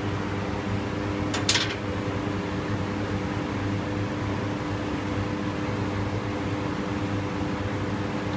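A steady machine hum, with a short sharp noise about a second and a half in.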